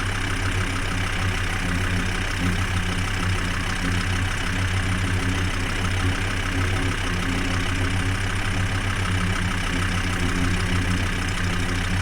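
Tractor engine running at a steady speed, a constant low hum with no change in pitch.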